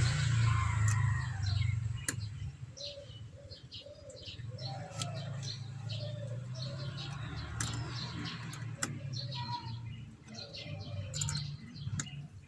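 Small birds chirping repeatedly, with a few lower curved calls a few seconds in, over a steady low hum. A louder vehicle-like noise fades out over the first couple of seconds.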